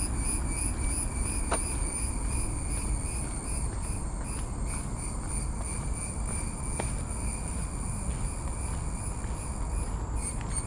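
Insects trilling in a steady, pulsing high drone over a constant low rumble.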